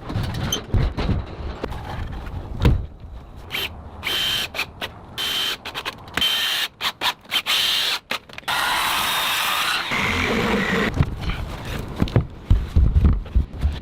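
A handheld power tool, such as a drill or driver, runs in several short bursts, then in one longer run of about a second and a half. A series of sharp knocks follows near the end, as framing timbers are fastened.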